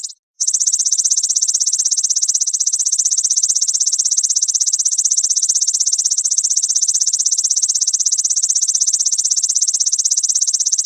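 Grasshopper (belalang) stridulating: a continuous, loud, high-pitched buzz made of very rapid pulses, with a brief break just after the start.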